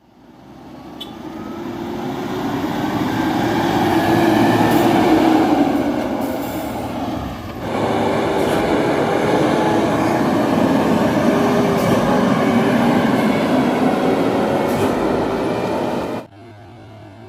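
Heavily loaded dump truck's diesel engine running under load as it passes close by, swelling over the first few seconds. The sound changes abruptly about seven and a half seconds in, then holds steady, and cuts off suddenly near the end, leaving a low hum.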